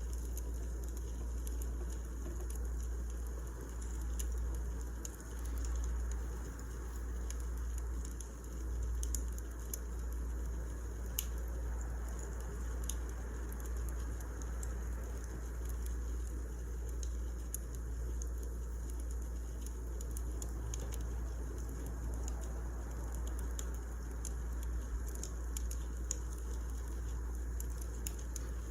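Wood fire crackling: scattered sharp snaps and pops over a steady low rumble.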